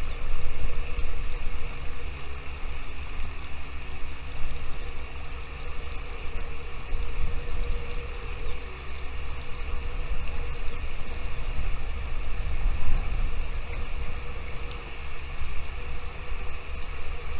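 Wind buffeting the microphone: an uneven low rumble that rises and falls, over a steady hiss.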